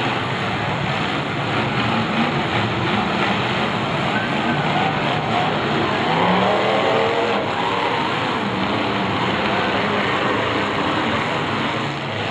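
Several demolition derby cars' engines running and revving together, loud and continuous, with one engine revving up about six seconds in.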